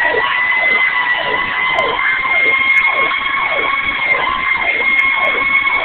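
Fire truck sirens running en route to a call: a steady wail held near its top pitch, layered with a fast electronic tone that falls in pitch two to three times a second.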